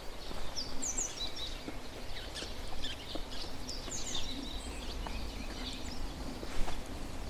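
Wild songbirds chirping, with quick high twitters in clusters, busiest about a second in and again around four seconds in, over a steady low outdoor rumble.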